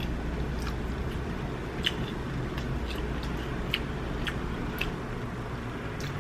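A person chewing and smacking their lips close to the microphone, with scattered sharp wet clicks over a low steady hum.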